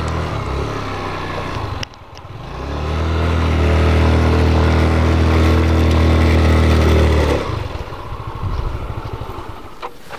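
Motorcycle engine revving under load: it runs briefly, breaks off about two seconds in, then is revved hard and held steady for about five seconds before dropping back. The bike is straining and not strong enough to make the climb.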